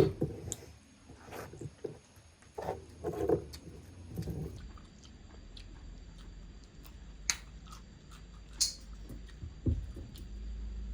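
A person chewing food close to the microphone, with scattered short clicks through the chewing.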